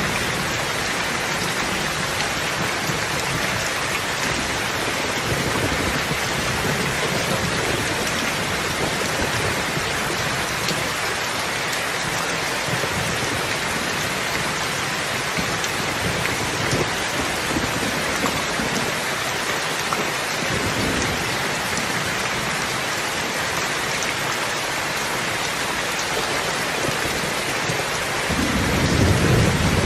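Steady rain falling in an even hiss. Near the end a low rumble of thunder swells in.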